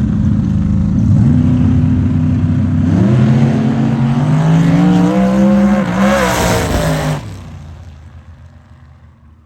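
Drag race cars launching and accelerating hard down the strip, the engine pitch climbing and stepping through gear changes. Loud for about seven seconds, then fading away as the cars get farther off.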